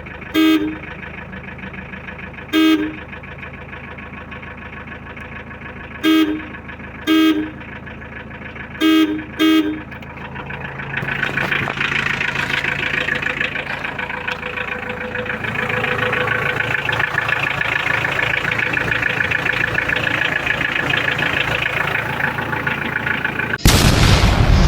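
Newly fitted car horn on a Nissan Serena tested in six short toots over about nine seconds, some in quick pairs, checking how loud it is. After that a steady rushing noise rises and holds, and loud music starts about a second before the end.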